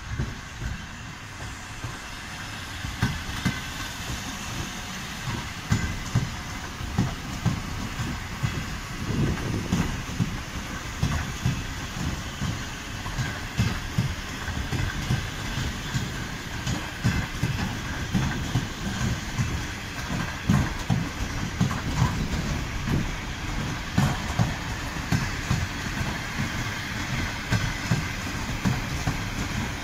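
Suburban electric multiple unit passing at speed, its wheels clattering over the rail joints in a repeating rhythm above a steady rumble of running gear.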